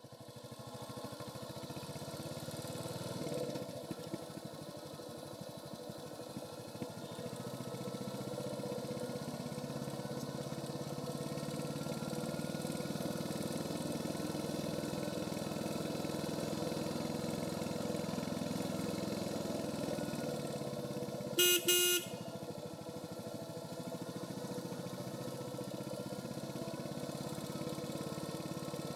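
Royal Enfield Hunter 350's single-cylinder engine running steadily through its stock exhaust while riding, fading in at the start. About twenty-one seconds in, a short horn honk of about half a second is the loudest sound.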